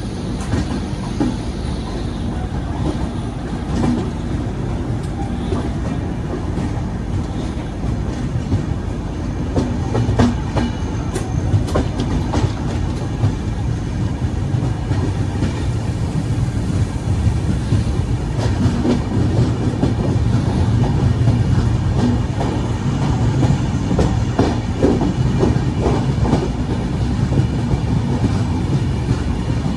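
Train running along the track: a steady low rumble with scattered sharp clacks from the wheels over the rails, growing a little louder from about ten seconds in.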